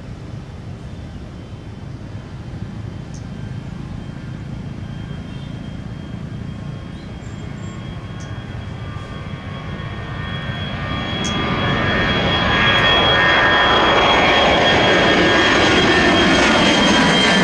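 Jet airliner engines at takeoff power, a low rumble that grows steadily louder from about ten seconds in, with a high steady whine that dips slightly in pitch near the end.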